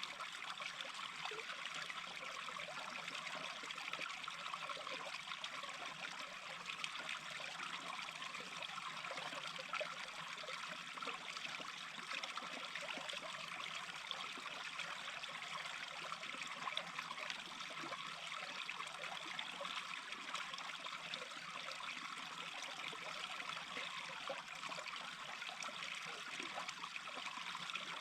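Small brook babbling steadily, an even murmur of running water.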